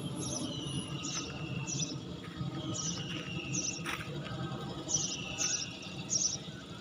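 Bird calls repeating: a falling whistle about every two seconds, with clusters of short high chirps between, over a steady low background rumble.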